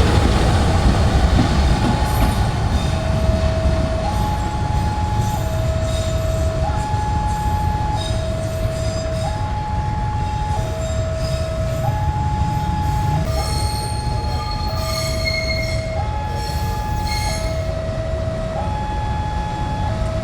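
Train hauled by two diesel-electric locomotives passing with a heavy rumble that eases slowly. From about two seconds in, a two-note warning tone alternates high and low, each note held about a second and a half.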